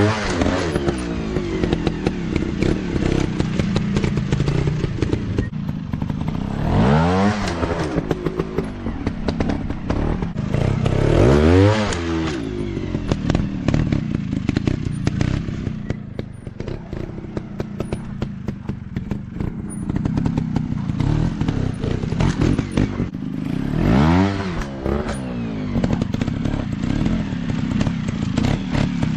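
Off-road dirt bike engine running and being revved: sharp throttle blips, each rising and falling in pitch, come four times over a steady engine note. Constant rattling and clatter run alongside.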